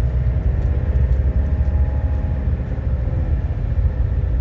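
Heavy diesel truck passing on the road: a steady engine drone over a deep road rumble.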